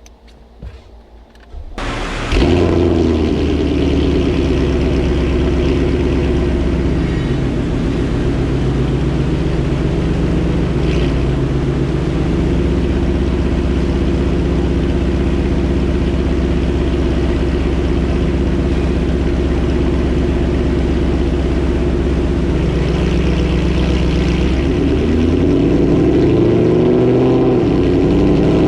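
Ford Mustang GT's 5.0-litre V8 breathing through headers and a catted exhaust, running on a chassis dyno. It comes in abruptly about two seconds in, holds steady revs for a long stretch, and near the end the pitch starts to shift as the revs change.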